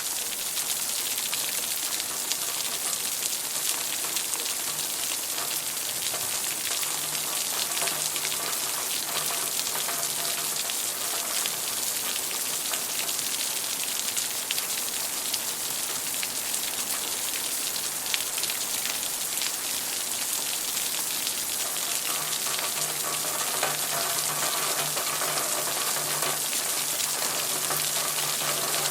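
Steady heavy rain falling, a dense hiss of many small drop impacts.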